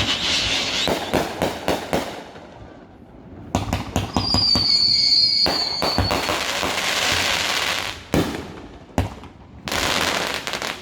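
Fireworks going off: a quick run of sharp bangs and crackling, then a whistling firework at about four seconds. More crackle follows, with several separate bangs near the end.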